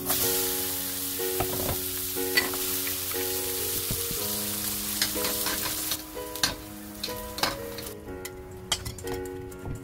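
Zucchini slices sizzling as they fry in perilla oil in a hot pan, with a few sharp clicks. The sizzle thins out about six seconds in and stops about eight seconds in.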